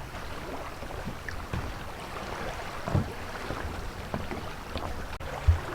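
Steady outdoor rushing noise with wind buffeting the microphone, broken by a few short low thumps.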